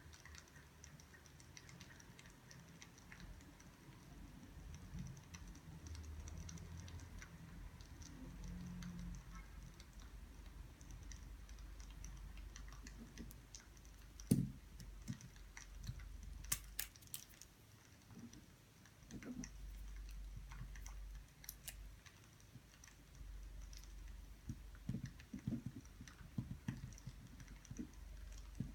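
Faint, scattered clicks and taps over a low room hum, with one sharper click about halfway through and a short run of clicks soon after: quiet desk-work sounds.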